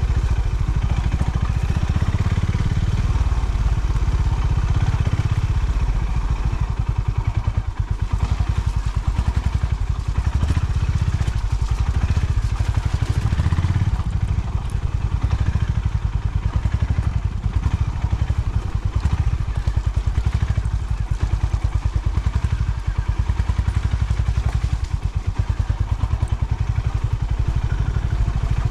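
Honda CB350 motorcycle's single-cylinder engine running at low revs, its exhaust pulses a steady rhythmic thump, with brief dips in loudness about a third of the way in and near the end.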